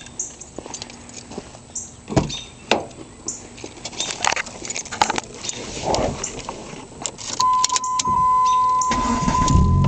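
Keys jangling and scattered clicks and knocks, then a steady electronic chime tone from about seven seconds in. About nine seconds in, the Dodge Neon's engine starts and runs steadily through its new exhaust of two inline Morroso spiral flow mufflers.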